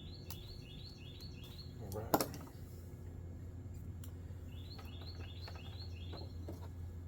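A bird singing two runs of about five quick repeated chirps, one at the start and one near the end, over a steady low hum. A single sharp click sounds about two seconds in.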